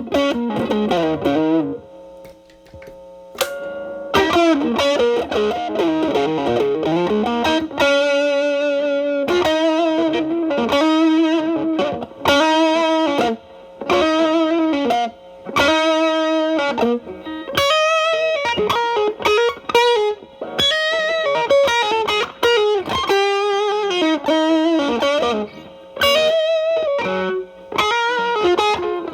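Telecaster with alnico single-coil pickups played through an MXR Distortion+ set low (distortion at 1–2), stacked with a Boss SD-1 as a gain boost, into a Marshall Valvestate's clean channel: lightly overdriven single-note lead phrases with bends and vibrato, with a short pause about two seconds in.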